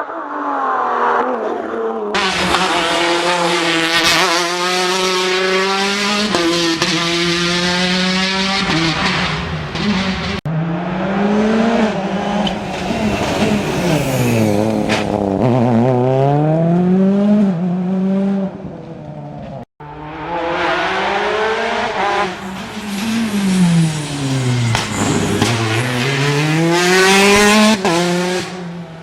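Rally cars at full throttle on a closed stage, engines revving high, in three separate passes. The engine pitch swoops down as the cars brake and downshift, then climbs again as they accelerate through the gears.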